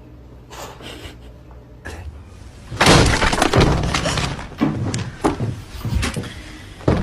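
A sudden loud crash about three seconds in, like objects falling and breaking, followed by a second or so of dense clattering and then scattered knocks and thuds.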